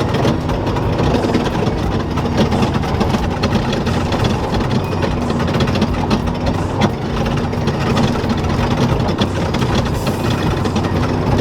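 A truck's engine running steadily while the truck is driven over dirt, heard from inside the cab, with scattered knocks and rattles.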